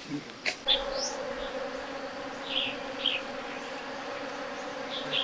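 Insect buzzing, a steady hum that starts just under a second in, with a few short high bird chirps over it.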